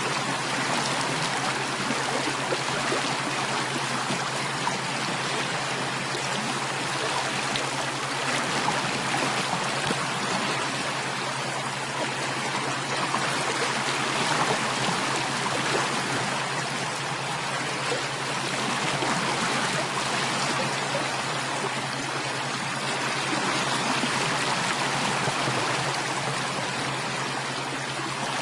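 Steady running water of a stream, an even rushing with a faint trickle, over a constant low hum.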